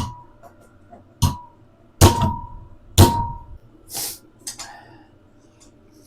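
Hammer blows on a minibike fork tube held in a straightening tool: three sharp metal strikes about a second apart, each ringing briefly, while a bow is worked out of the tube. A short hiss and a couple of light clicks follow.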